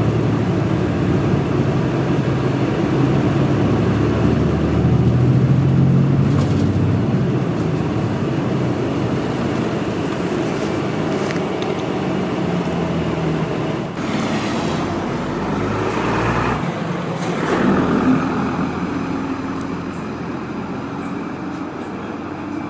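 City route bus heard from inside the passenger cabin: the engine running with road and cabin noise. About two-thirds of the way through come two short bursts of hiss, and the sound eases off towards the end.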